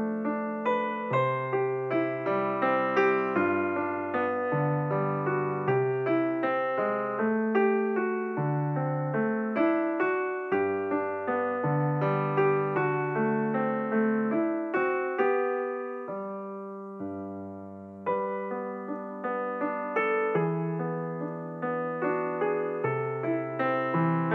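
Background piano music: a gentle piece of notes struck in a steady flowing line, with a chord left to die away about sixteen seconds in before the playing picks up again.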